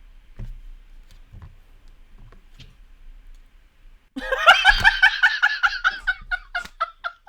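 A person laughing hard after a few seconds of faint scattered clicks. It is a long, high-pitched laugh in rapid bursts that trail off into short giggles.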